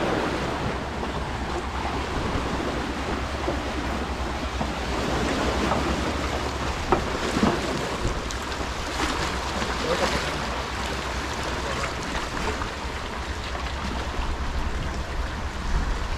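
Sea waves washing against a rocky shore, a steady hiss of surf, with wind rumbling on the microphone and a few light knocks.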